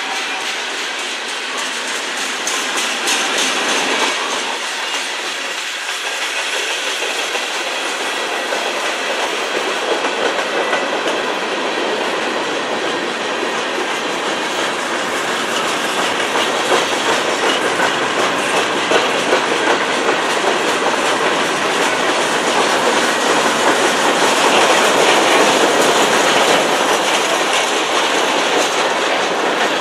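Freight cars of a CN manifest train rolling past: a steady rumble of steel wheels on the rails with repeated clickety-clack, growing a little louder in the second half.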